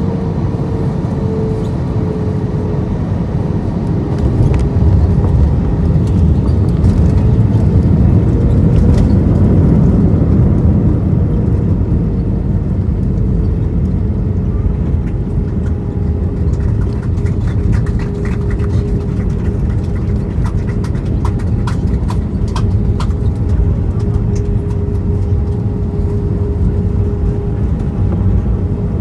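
Airbus A320 cabin noise from a window seat: the engines run as a steady low rumble with a faint whine that drifts in pitch, growing louder for several seconds a few seconds in. Light rattling clicks come and go in the middle of the stretch.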